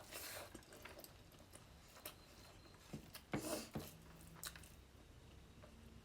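Faint close-up eating sounds: soft chewing and wet mouth clicks, with a louder mouth noise about three and a half seconds in.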